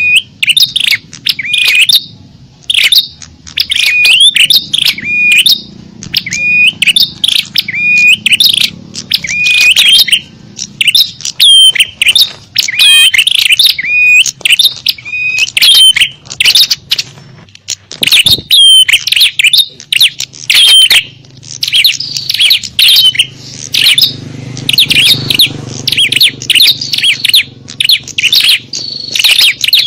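A noisy chorus of small songbirds: loud, rapid chirps and short up-and-down whistled sweeps repeating throughout, a bird-lure (pikat) recording made to draw in small birds.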